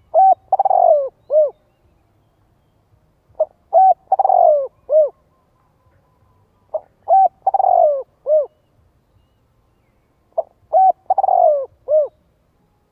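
Spotted dove cooing: four call phrases, about one every three and a half seconds. Each phrase is a few short coos around a longer falling one.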